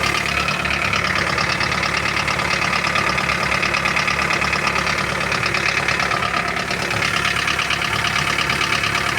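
Toyota Carina 1.8-litre engine idling steadily with a fast, even knock: the owner considers the engine dead.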